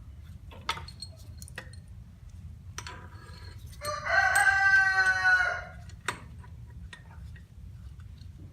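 A rooster crowing once, a single loud call about two seconds long starting about four seconds in. A few light knocks and clicks of hand tools come before and after it.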